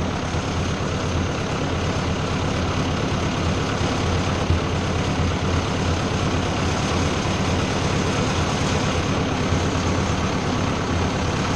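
Ford 600 tractor's gasoline four-cylinder engine running steadily with its fuel supply shut off, burning what is left in the fuel lines, sediment bowl and carburetor bowl before it starves and stops.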